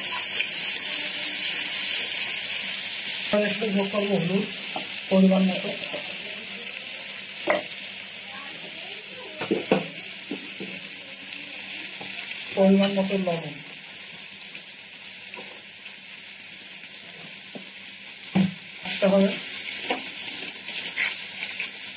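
Spice pastes sizzling in hot oil in a metal karai while being stirred with a metal spatula, with occasional knocks of the spatula against the pan. The sizzle is strongest for the first few seconds and quieter after about six seconds.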